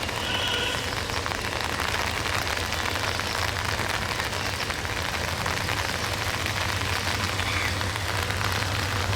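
Steady rain falling as a dense hiss. Under it runs the low, steady hum of a diesel locomotive engine, an EMD JT18U6, which grows louder toward the end as the train creeps closer.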